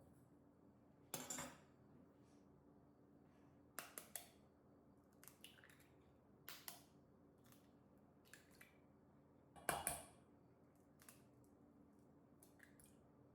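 A series of short, light knocks and clinks from objects being handled by hand, about eight of them spread unevenly, the loudest about ten seconds in, over a faint steady hum.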